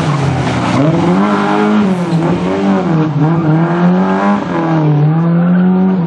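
Rally-prepared Lada saloon's four-cylinder engine being driven hard, its pitch climbing and dropping several times as the driver accelerates, shifts and lifts through the bends.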